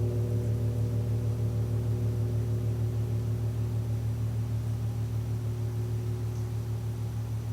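Large gong ringing out after being struck: a deep steady hum with a fast pulsing beat, slowly fading as its higher overtones die away. It is not struck again.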